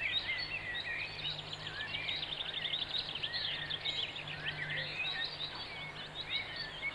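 Many small birds chirping and trilling continuously in a dense chorus of short high notes, over a faint steady low hum.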